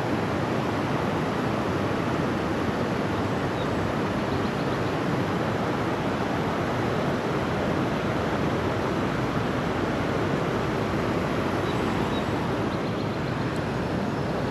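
Creek water rushing steadily in an even, unbroken wash, with a few faint high chirps.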